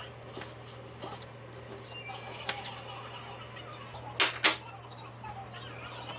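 A steady low hum with faint background voices, broken by a few sharp knocks; the two loudest come close together a little after four seconds in.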